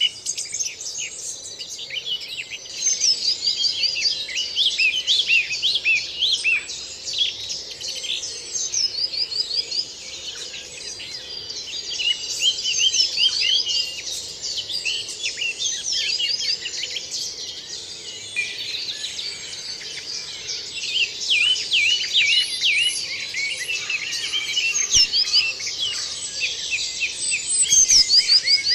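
Spring dawn chorus: many songbirds singing at once, with overlapping warbles, whistles and quick repeated trills running on without a break.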